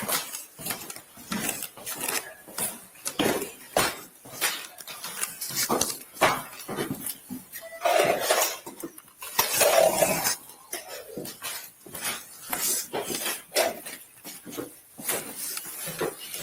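Irregular clinking, rattling and knocking of a police officer's gear and footsteps, picked up close on a body-worn camera, with a couple of louder stretches about 8 and 10 seconds in.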